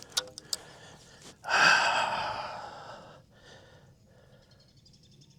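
A person's long, heavy sigh, loud at first and fading out over about a second and a half, with a few light clicks just before it.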